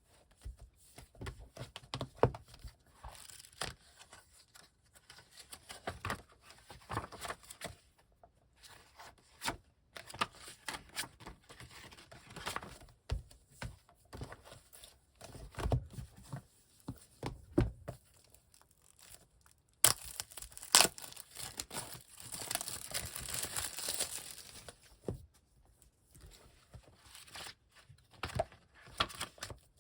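Packaging being torn open and crinkled by hand, with scattered rustles and light taps as the manga volumes are handled. About two-thirds of the way through, a sharp snap starts a longer, louder stretch of tearing and crinkling.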